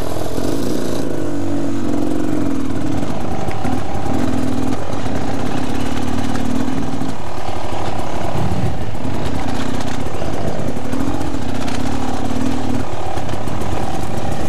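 Dirt bike engine running while riding, the throttle opened and eased off again and again, so the engine note comes in strongly five or so times and drops back between.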